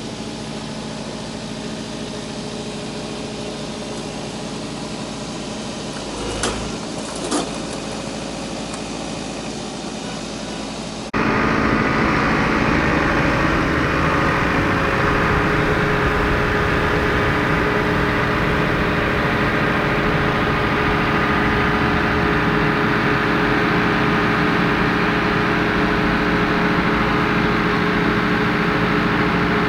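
RK55 compact tractor's diesel engine running steadily, with two short knocks about six and seven seconds in. About a third of the way through the sound cuts abruptly to a louder, closer take of the engine running.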